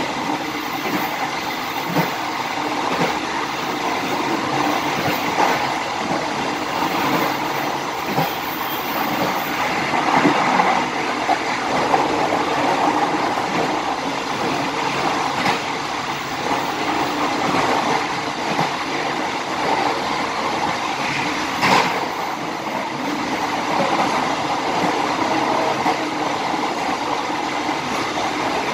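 Bengawan passenger train running along the track, heard from its rear: a steady rolling rumble and rail noise, with a few sharp clicks from the wheels over the rails, the loudest a little after three-quarters of the way through.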